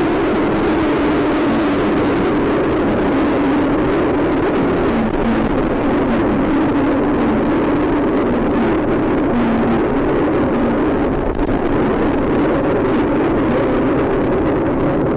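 Steady drone of a vehicle driving at highway speed: road, engine and wind noise holding level throughout, with no distinct crashes or impacts.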